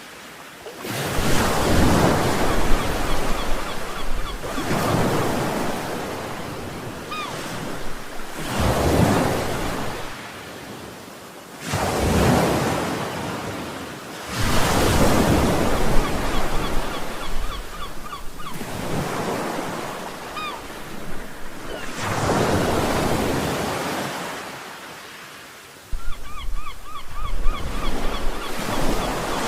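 Sea waves breaking and washing up the shore, each surge swelling and fading about every three to four seconds.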